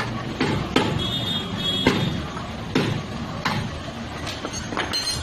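Hammer blows on a car's sheet-metal body panel during denting work: sharp, irregular strikes about once a second, one of them leaving a brief metallic ring.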